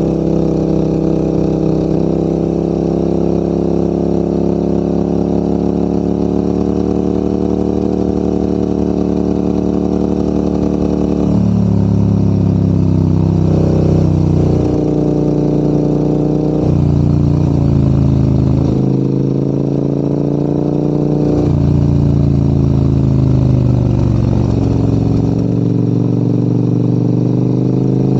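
Motorcycle engine running under load as it climbs a mountain road, its pitch shifting in sudden steps several times in the second half, as with gear changes, over a steady rush of wind and road noise.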